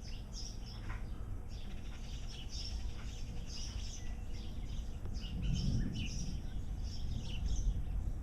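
Small songbirds chirping in quick, repeated short notes, over a steady low rumble.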